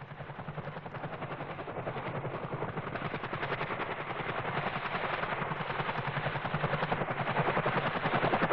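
Helicopter rotor chopping: a rapid, even beat of blade thumps that grows steadily louder.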